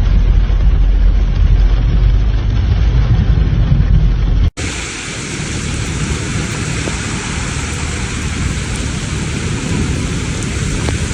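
A loud, steady low rumble, then a sudden cut about four and a half seconds in to the steady hiss of heavy rain, which continues to the end.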